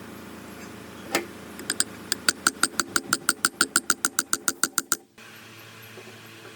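A rapid, even series of sharp metallic strikes, about six a second, each with a short ringing tone, stopping abruptly about five seconds in; a single strike comes first, about a second in.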